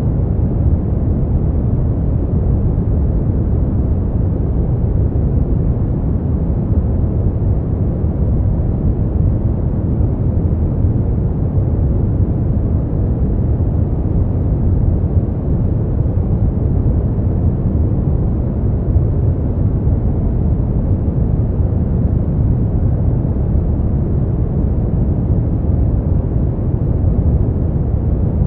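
Steady brown noise: an even, deep rumbling hiss that does not change, strongest in the low end and fading off toward the highs.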